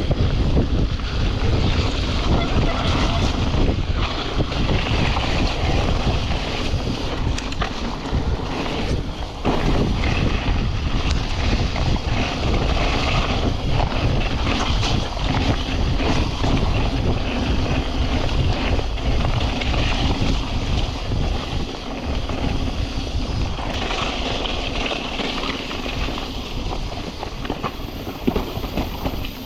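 Mountain bike descending a wet, muddy trail: wind rushing over the action-camera microphone, mixed with tyre roar and the bike rattling and clattering over rough ground.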